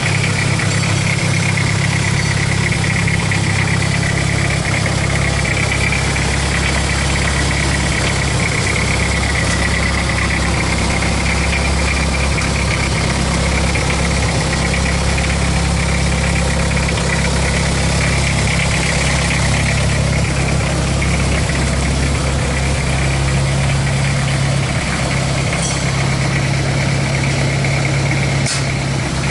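Toyota 2L-T four-cylinder turbo diesel engine running steadily with a diesel clatter and an even low hum.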